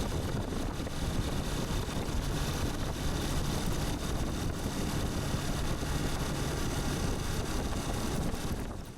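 Steady vehicle running noise with a heavy low rumble and wind on the microphone, fading out abruptly at the very end.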